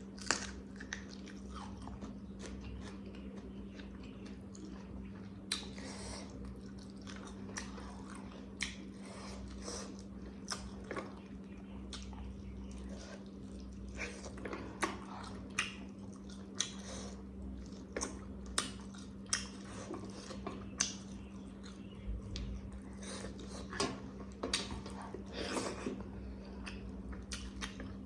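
A person eating close to the microphone: chewing and wet mouth smacks, with irregular short clicks a few times a second. A steady low hum runs underneath.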